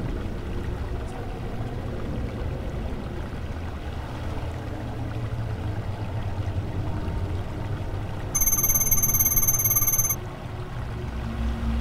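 A low steady rumbling drone. About eight seconds in, a loud, high-pitched electronic buzzing tone with a fast flutter comes in, lasts about two seconds and cuts off suddenly.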